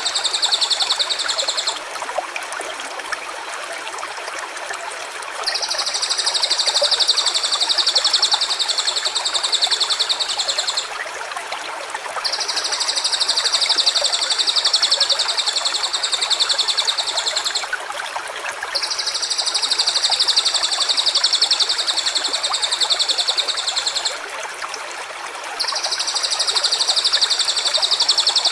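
A high, rapidly pulsed buzzing call repeated in long phrases of about five seconds, four times with short gaps, over the steady rush of running water.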